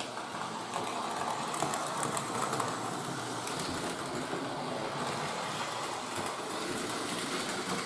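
Model train running on its track: a steady whirring run with faint clicking from the wheels on the rails.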